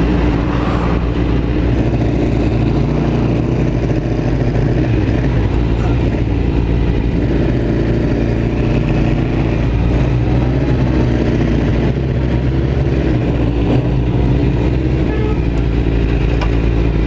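Motorcycle engine running at a steady pitch, heard from the bike's own camera.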